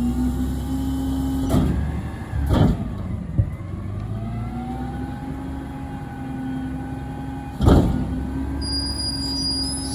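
Garbage truck engine revving up and holding a raised speed, its pitch dipping briefly and climbing again. Four sharp bangs cut through it, the loudest near the end.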